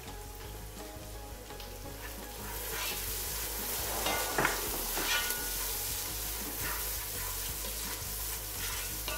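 Onions frying in butter in a pot, sizzling steadily, while a spoon stirs and scrapes through them against the pot. The sizzle grows louder about a third of the way in, with a few scrapes of the spoon near the middle.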